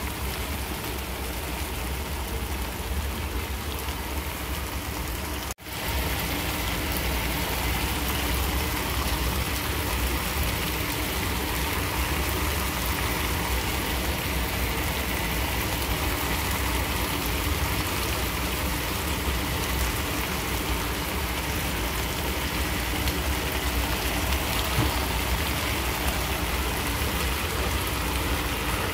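Mixed vegetables sizzling steadily as they fry in an electric skillet, a rain-like hiss that drops out for a moment about five and a half seconds in.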